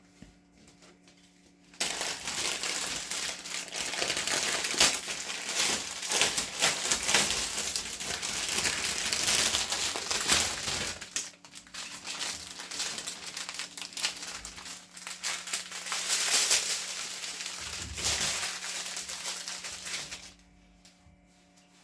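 Plastic packaging of a diamond painting kit crinkling and rustling as it is handled. The crinkling starts about two seconds in, pauses briefly midway and stops near the end.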